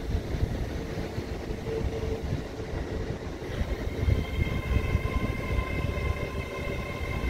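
An LNER Azuma passenger train moving slowly along a platform: a steady low rumble, joined about three and a half seconds in by a high electric whine made of several steady tones.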